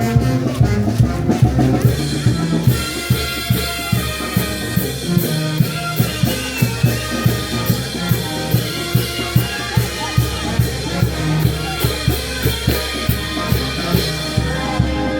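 Brass band playing with drums on a steady beat, brass chords over a regular bass drum pulse; cymbal strokes join about two seconds in.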